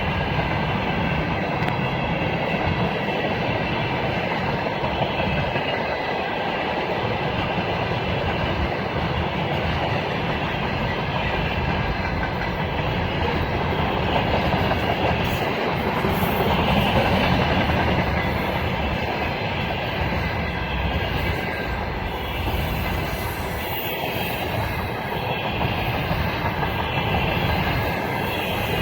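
Russian freight train wagons rolling past, their wheels clattering steadily over the rail joints.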